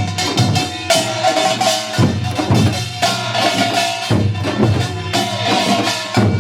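Korean pungmul percussion ensemble playing together: janggu hourglass drums with the bright metallic clang of kkwaenggwari small gongs. A fast rhythmic pattern repeats about once a second.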